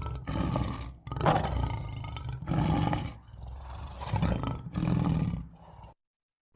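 A large animal giving a series of deep, rough roars or growls, about five calls in a row, which stop abruptly near the end.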